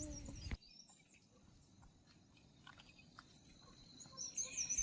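Faint outdoor ambience with a steady high insect-like tone and scattered small ticks, then a few quick bird chirps near the end. A louder stretch of outdoor sound cuts off abruptly about half a second in.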